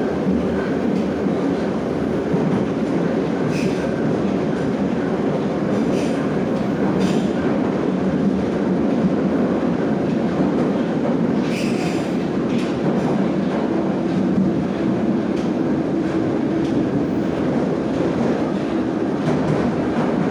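Moscow metro 'Nomernoy' (81-717/714) train running through a tunnel: a steady rumble of wheels and traction motors, with a few short clatters as the wheels pass over rail joints.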